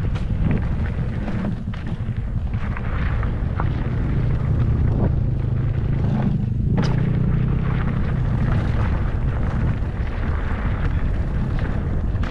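Small motorcycle engine running under way on a dirt trail, its note strongest and steadiest through the middle, with wind rumbling on the microphone.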